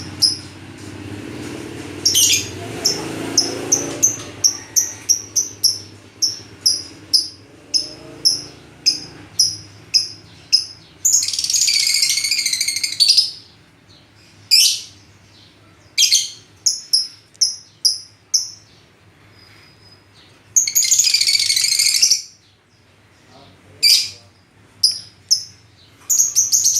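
Lovebirds calling in a rapid series of short, high-pitched chirps, about two or three a second, broken twice by a longer harsh screech lasting a second or two, about eleven and twenty seconds in.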